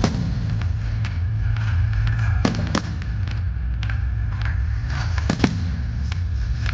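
Aerial fireworks going off: sharp bangs every second or two, the loudest about five and a half seconds in, over a steady low rumble.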